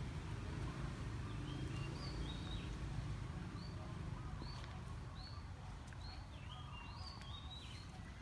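Small bird chirping: short high arched chirps, about one or two a second, over a steady low rumble of outdoor background noise.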